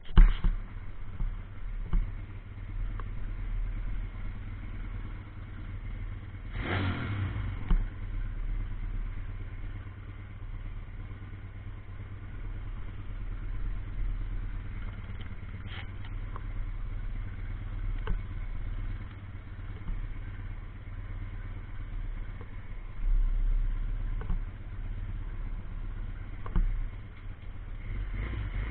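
A 140cc pit bike's single-cylinder engine running, with small rises and falls in level and a few sharp knocks along the way.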